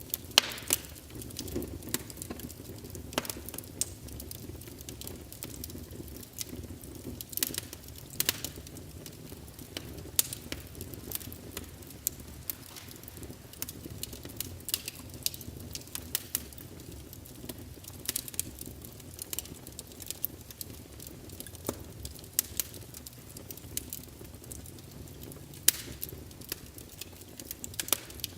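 Wood fire burning in a fireplace: a steady low rumble and hiss of the flames with irregular sharp crackles and pops, a few of them louder snaps.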